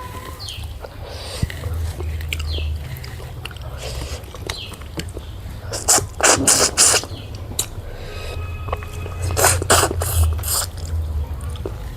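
Close-miked eating sounds: chewing, smacking and slurping of food, with two clusters of louder sharp mouth noises, about six seconds in and again near ten seconds.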